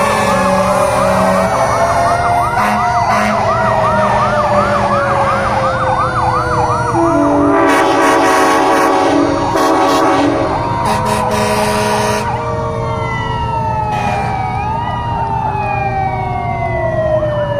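Several fire trucks sounding their sirens at once: a fast yelping siren overlaps slow rising and falling wails, over a steady engine rumble. Loud horn blasts come in the middle. Near the end the sirens fall in pitch.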